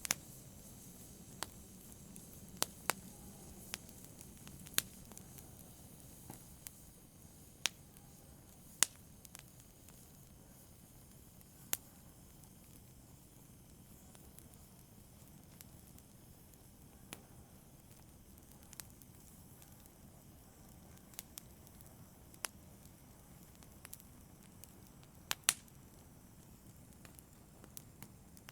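Wood fire crackling in a fireplace: irregular sharp pops and snaps, every second or two, over a faint steady hiss.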